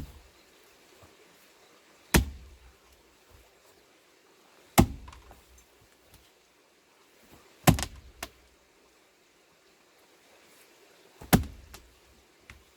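An axe striking a large plane-tree (sycamore) log four times, one sharp blow every two to three and a half seconds, while splitting it for firewood.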